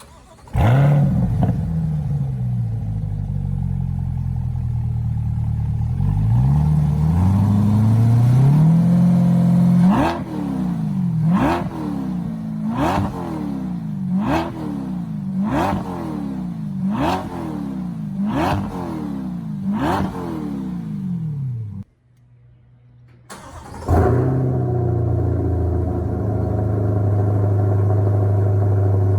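2020 C8 Corvette's 6.2-litre LT2 V8, heard through a 3-inch stainless cat-back exhaust with an X-pipe that still keeps the factory catalytic converters. It starts with a flare and settles to idle, revs slowly once, then gets about eight quick throttle blips roughly a second and a half apart. After a short break it starts again and settles to a steady idle.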